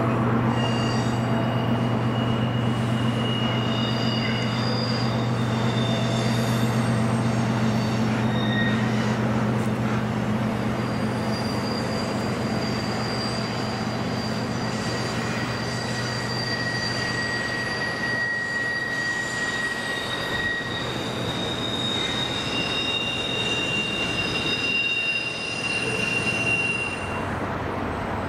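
Long freight train rolling through curves, its wheels squealing in several high, drawn-out tones that overlap and come and go over a steady low rumble.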